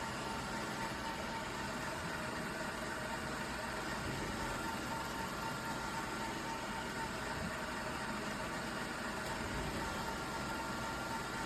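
iRobot Roomba Vac Essential (Q0120) robot vacuum running: a steady motor and brush whir with a thin held whine above it.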